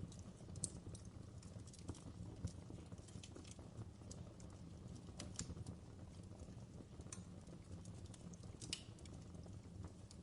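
Wood fire crackling: scattered, irregular sharp pops and snaps over a low, steady rumble of burning.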